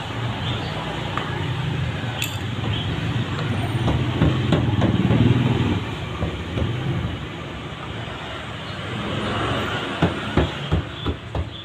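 Metal clicks and knocks from a wire gasket clamp being worked onto the rubber door seal of an LG front-loading washing machine, with a quick run of sharp knocks about ten seconds in, over a steady low rumble.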